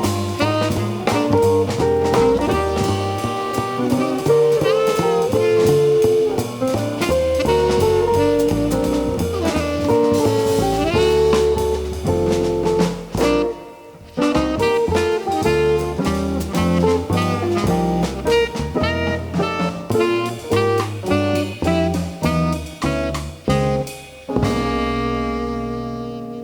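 Live jazz band playing. There is a brief gap just before halfway, then a run of short, repeated accents, and the band lands on a held chord near the end.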